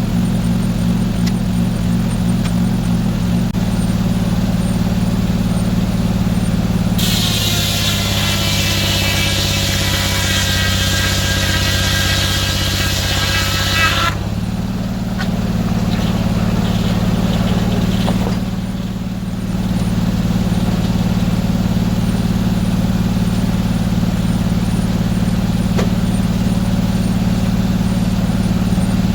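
Sawmill engine running steadily. For about seven seconds partway through, the saw blade cuts through a log, adding a loud hissing whine that drops in pitch as the engine takes the load.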